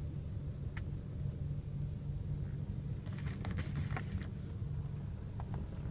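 Steady low hum inside a 2015 Audi A3's cabin, with a few light clicks and handling noises about three to four seconds in.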